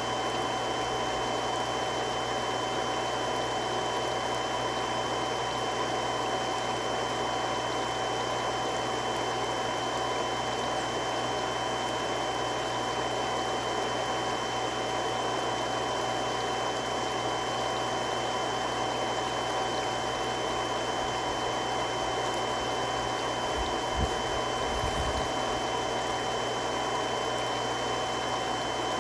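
Three-stage irrigation water pump running steadily: a constant rushing hum with a steady whine over it. A brief low thump sounds near the end.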